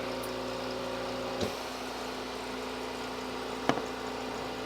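A steady machine hum, with two brief clicks about a second and a half in and near the end.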